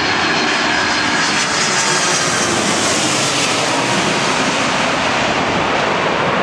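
Airliner passing close by: a loud, steady engine rush with a faint whine, brightest about two to three seconds in and then easing off.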